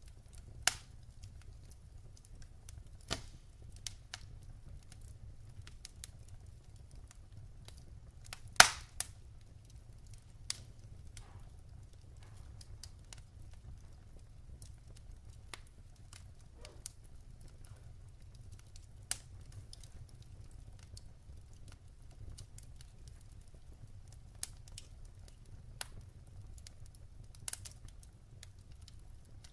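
Firewood burning in a fireplace, crackling with sharp pops at irregular intervals, the loudest about eight and a half seconds in, over a low steady rumble of the flames.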